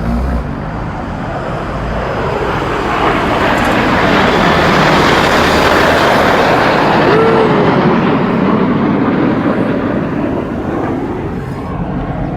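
Red Arrows' BAE Hawk jets in formation flying over, a broad jet roar that builds over the first few seconds, is loudest in the middle and fades toward the end.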